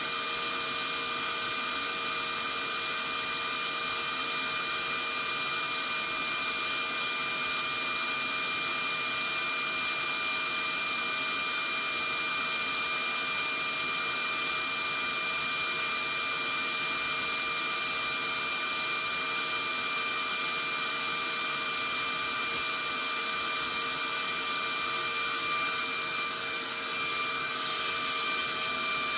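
Vacuum cleaner running steadily: a constant rushing hiss of air with a steady motor whine over it, played as white noise.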